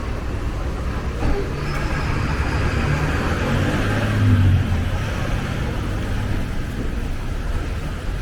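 City street traffic: a steady rumble of vehicles, with one passing close and loudest about four seconds in.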